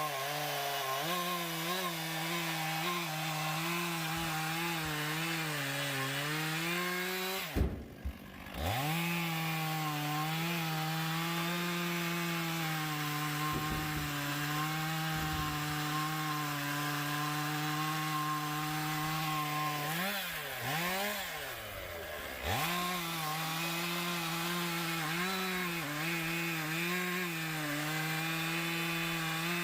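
Two-stroke chainsaw running at high revs, cutting oak, its pitch wavering as it bogs under load. The engine drops off the throttle and comes back about eight seconds in, and sags and recovers again about twenty seconds in.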